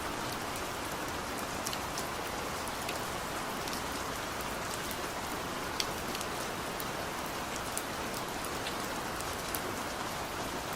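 Heavy rain falling steadily, a dense even hiss with many individual drops ticking sharply on a hard surface.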